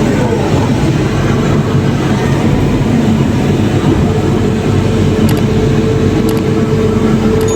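Heavy diesel machinery engine running steadily and loudly, with a pitch that sweeps down right at the start and a few faint clicks later on.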